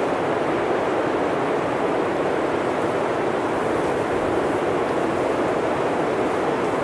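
Blizzard wind blowing steadily through a forest, an even rushing noise that keeps a constant level.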